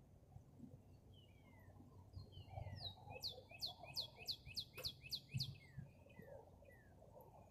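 Birds chirping: short falling chirps repeat throughout, and in the middle a fast trill of about nine loud falling notes lasts roughly two seconds.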